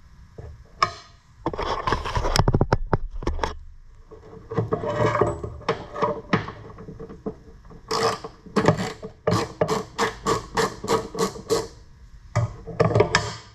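Hand socket ratchet clicking as it is worked on a bolt, with a dense clatter early, scattered clicks, then an even run of about three clicks a second from about eight seconds in. The bolt is not very tight and turns out easily.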